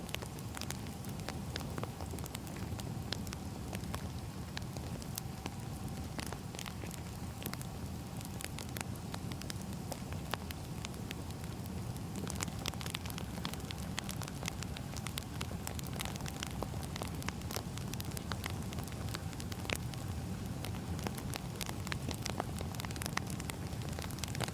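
Firewood burning with a steady crackle: many sharp pops and snaps over a low rumble of the fire.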